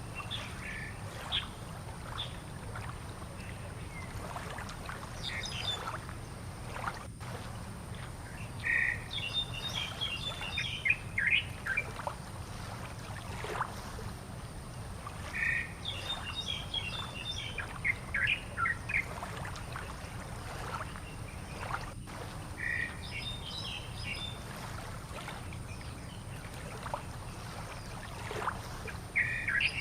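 A bird singing the same short phrase of quick high notes about every seven seconds, with scattered single chirps in between, over a steady low rumble.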